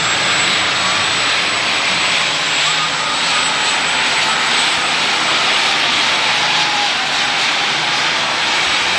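Turbocharged diesel Super Stock pulling tractor, an International Harvester, running flat out down the track under load. Its engine noise is loud and steady, with a high, steady turbocharger whistle over it.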